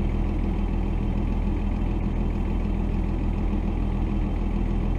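Dodge D250 pickup's Cummins diesel engine running steadily at low speed, heard from inside the cab.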